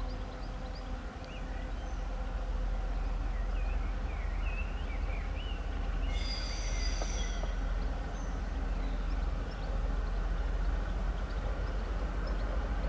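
M62 diesel locomotive running light with a steady low engine rumble, birds chirping over it. A brief high whistle-like tone sounds about six seconds in.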